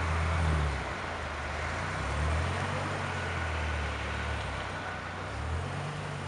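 2008 Dodge Viper SRT-10 ACR's 8.4-litre V10 running at low revs as the car creeps away, a low exhaust note that rises and falls slightly in pitch.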